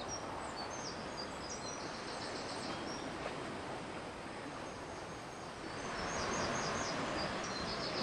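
Small birds chirping in short quick trills, about two seconds in and again near the end, over a steady outdoor background hiss.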